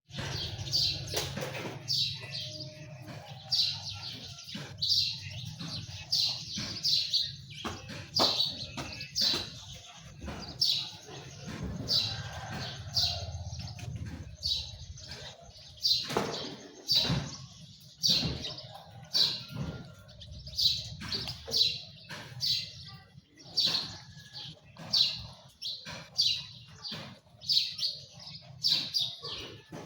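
Birds chirping: short high calls repeating about once or twice a second, over a low steady background hum.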